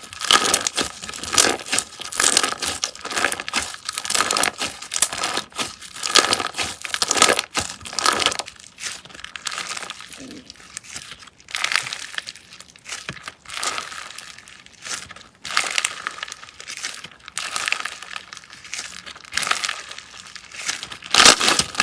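Slime being squeezed and pressed by hand, crackling and crinkling in quick, irregular bursts, with quieter stretches in the middle.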